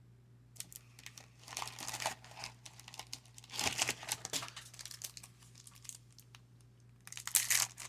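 Wrapper of a 1996 Pinnacle Sportflix baseball card pack crinkling and tearing in irregular bursts as the pack is opened and handled. The crinkling starts about half a second in, runs for about four seconds, pauses, and comes back near the end.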